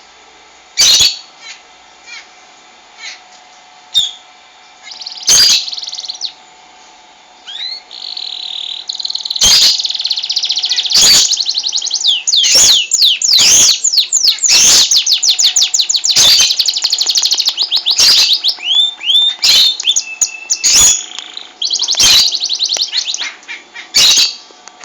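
Male Gloster canary singing: chirps building into long, fast trills and rolling phrases through the middle. Sharp, loud clicks come every second or two over the song.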